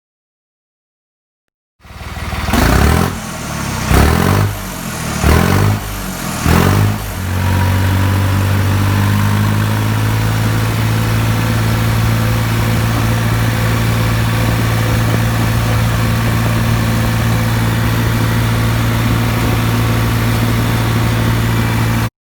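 New Holland 3630 tractor's diesel engine revved four times in quick bursts, then running at a steady speed; the sound cuts off abruptly near the end.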